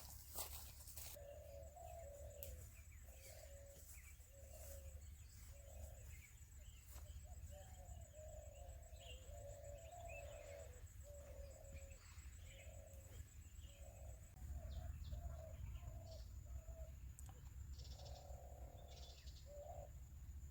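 A bird calling over and over in short, low notes, about one or two a second, faint against a steady low hum.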